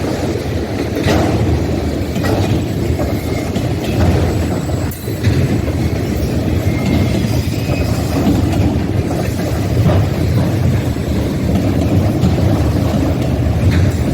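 Freight train rolling past: a loud, steady rumble with a few sharp clicks scattered through it.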